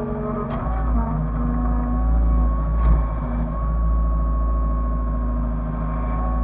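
Hyundai excavator's diesel engine running under load, with a steady low rumble and hydraulic whine tones that shift in pitch as the machine works, and a couple of faint knocks.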